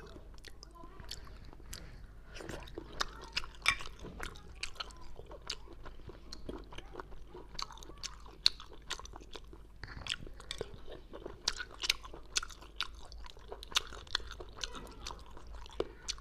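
Close-miked chewing of cooked abalone snail meat: irregular, sharp, wet mouth clicks and smacks.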